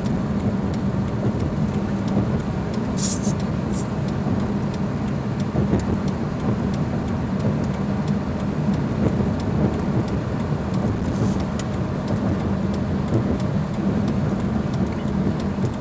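Steady road, engine and wind noise heard from inside a car driving at about 40 mph, with a couple of brief crackles.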